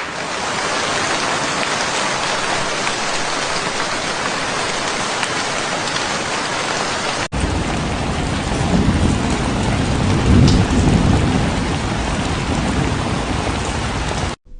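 Steady rain falling. About seven seconds in there is a sudden cut to another rain recording, which carries a low rumble of distant thunder that swells around ten seconds in.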